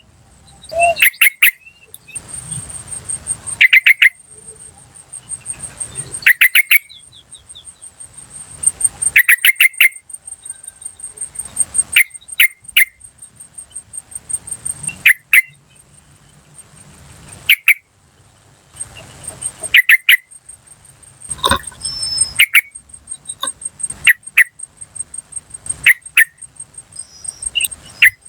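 Yellow-vented bulbul (trucukan) calling in wild lure recording: short, bright chattering phrases repeated every two to three seconds. An insect trills steadily and high-pitched throughout.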